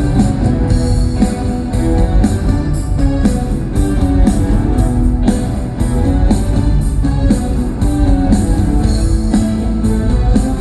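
Live rock band playing a guitar-led instrumental passage over a steady drum beat, with no vocals.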